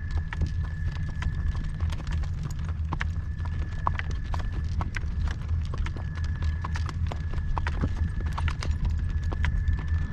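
A horse's hooves clip-clopping at a walk, a steady run of uneven hoof strikes, over a constant low rumble.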